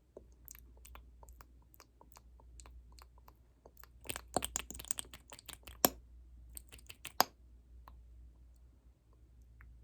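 Close-miked ASMR trigger sounds: a string of small, crisp clicks and taps at an irregular pace, with a dense flurry about four seconds in and two sharp snaps near the middle.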